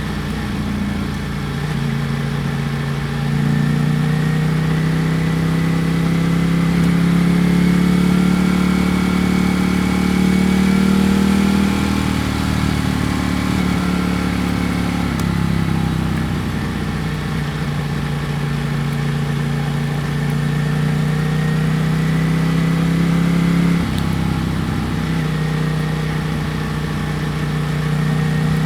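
Ducati Panigale V4 S's V4 engine running under way at moderate revs, heard from the rider's position. Its note climbs slowly, drops away about twelve seconds in, then holds fairly steady with another change in pitch near the end.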